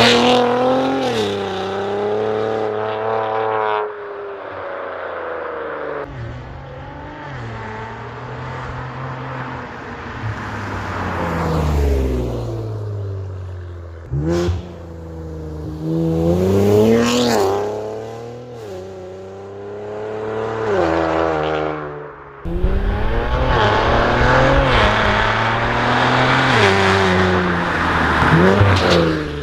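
Infiniti Q50/Q60 3.0t twin-turbo V6 through a 3-inch AAM Competition catback and catted downpipes, heard in several fly-bys: the exhaust note rises in pitch under acceleration and then falls away as the car passes. The clips cut abruptly from one pass to the next, at about four seconds in and again later on.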